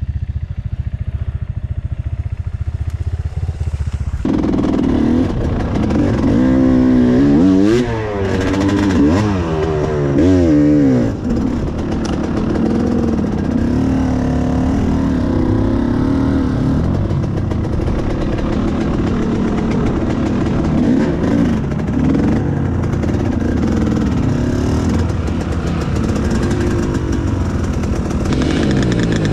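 Enduro motorcycle engine idling with a low rumble. About four seconds in it is revved hard, the pitch rising and falling several times, and it then runs on at fairly steady revs.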